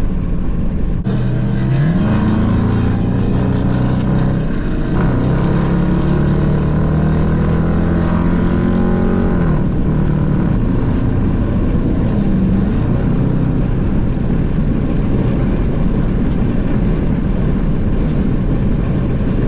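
Dodge Charger's V8 engine on the highway with road noise. It climbs in pitch a little after a second in, pulls steadily, then drops back about ten seconds in as the throttle eases.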